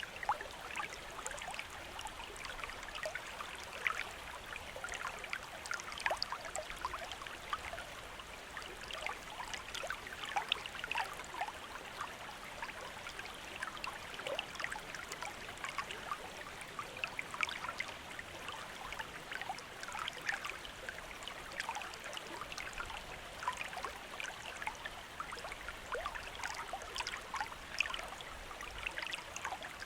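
Shallow stream running over stones, a steady babble full of small splashes and trickles.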